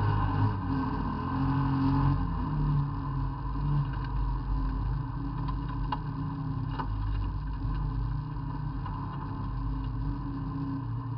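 Race car engine heard from inside the cabin, pulling hard on gravel, its pitch rising and falling with throttle and gear changes. A couple of sharp knocks about six and seven seconds in.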